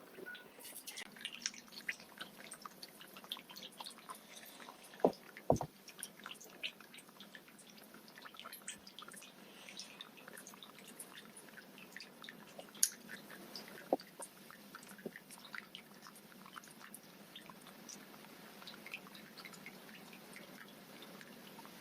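Goldfish smacking at the water surface as it feeds: many small, irregular pops and clicks, with a few louder pops about five seconds in and again later.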